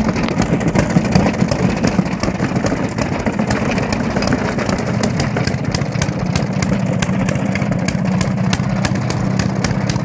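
An old engine running steadily with an even, rapid firing beat.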